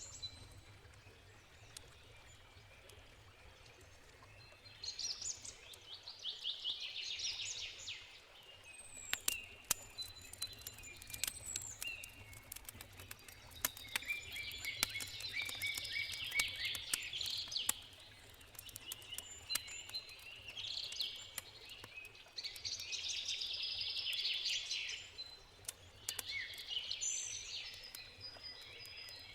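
Songbirds singing in repeated short phrases every few seconds, with sharp pops and crackles of a wood campfire clustered in the middle.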